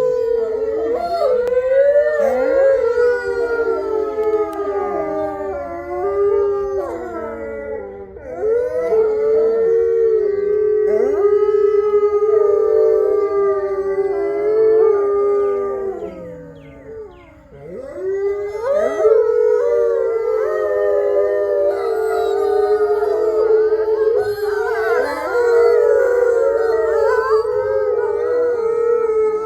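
A pack of gray wolves howling together in chorus, several voices overlapping and gliding up and down in pitch around one long held low howl. The chorus thins briefly a little past halfway, then swells again.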